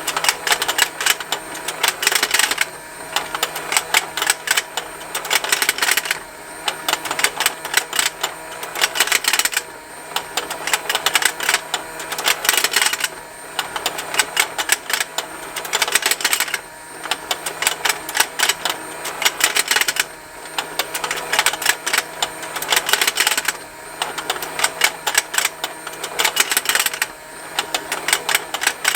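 Plastic fishing-game toy running: its small motor turns the pond while the plastic parts tick and snap. The clicking comes in dense runs about every three and a half seconds, with short quieter gaps between.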